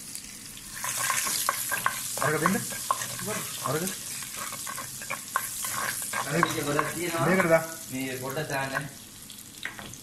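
Food sizzling as it fries in a pan, with a utensil stirring and scraping in short clicks and clatters.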